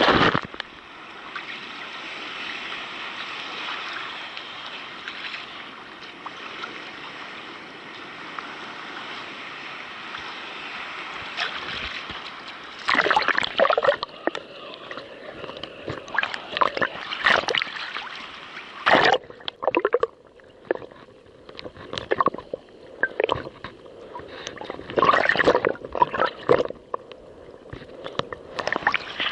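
Sea waves sloshing and splashing around a kayak. There is a steady wash of water at first, then from about halfway through come irregular louder splashes as waves slap and break.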